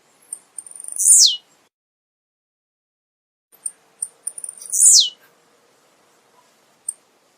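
Male blue-black grassquit (tiziu) singing: two songs about three seconds apart, each a few short high ticks that lead into one loud note sweeping sharply down in pitch.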